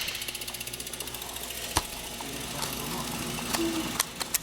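A BMX bike's rear hub ticking rapidly and evenly as the wheel freewheels, with a few sharp clicks mixed in.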